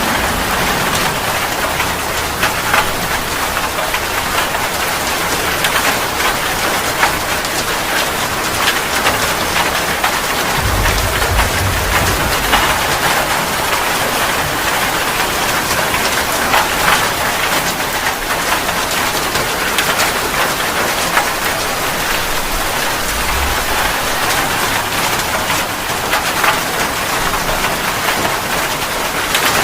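Steady rain: a dense, even hiss of falling water with many sharp individual drop hits on a surface. A brief low rumble comes about ten seconds in, and a shorter one a little past two-thirds of the way.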